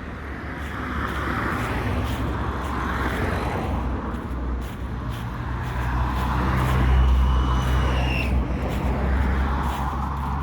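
Road traffic: a motor vehicle's engine hum with a hiss of tyres, building to its loudest about seven seconds in and then easing off as it passes.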